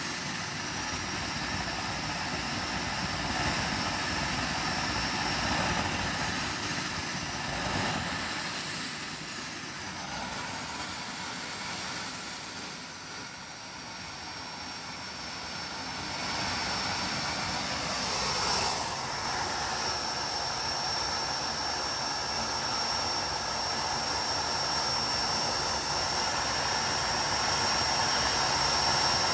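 Model jet turbine engine on an RC plane running on the ground: a loud rushing whine whose high pitch rises and falls several times in the first dozen seconds as the throttle changes, then settles to a steady whine for the rest.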